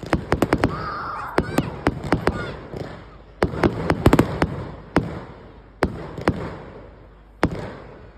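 Fireworks going off: a rapid, irregular string of sharp bangs, each with an echoing tail. They come in quick clusters through the first half and thin out to single bangs near the end.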